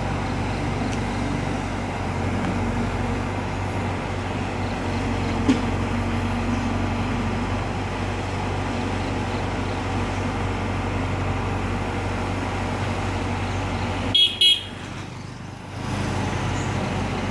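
Heavy vehicle engine running steadily, with two short horn toots about fourteen seconds in, after which the engine sound briefly drops away.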